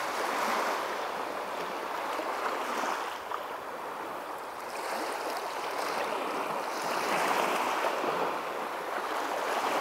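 Small waves washing onto the shore: a steady rushing that swells and eases every few seconds.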